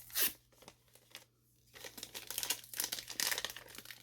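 Protective plastic film being peeled off a new hair dryer and crumpled: a short sharp rip just after the start, then a longer stretch of crinkling in the second half.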